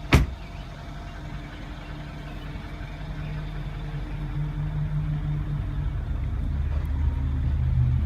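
The Mercedes-Benz S63 AMG's 5.5-litre twin-turbo V8 idling as a steady low hum that grows gradually louder. A single sharp click sounds about a tenth of a second in.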